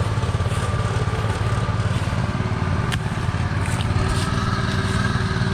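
Tractor engine running steadily, with a single faint click about three seconds in.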